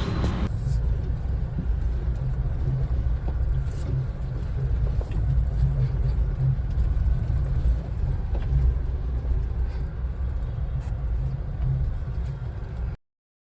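Car moving slowly, heard from inside the cabin: a steady low rumble of engine and tyres with a few faint ticks, cutting off suddenly near the end.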